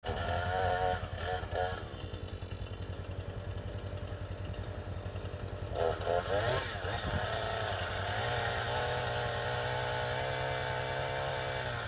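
Gasoline chainsaw engine running, revved up briefly about a second in and again about six seconds in, and otherwise running at a lower steady speed.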